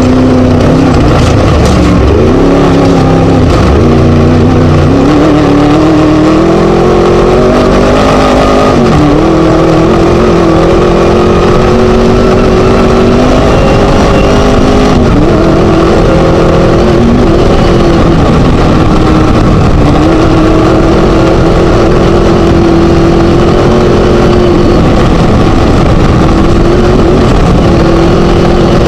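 Class 1 desert race buggy's Scat engine running hard, heard onboard. Its pitch keeps rising under throttle and dropping briefly as it lifts off, over a steady rush of noise.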